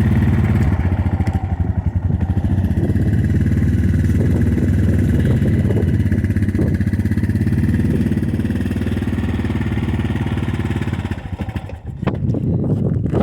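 Four-wheeler (ATV) engine idling on choke during a cold start in freezing weather, steady at first, then running unevenly and faltering about eleven seconds in before picking back up.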